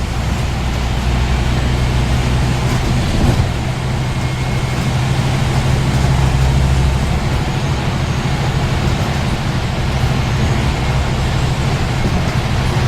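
Scania N230UD double-deck bus's five-cylinder diesel engine running steadily under way, with road noise. The engine note changes briefly about three seconds in.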